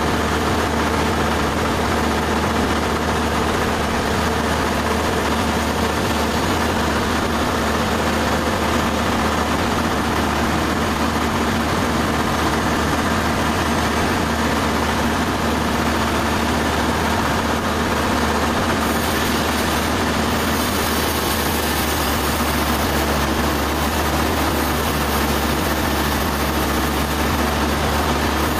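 Sawmill machinery running steadily: a constant engine drone with a low hum and broad mechanical noise. A higher hiss grows stronger about 19 seconds in.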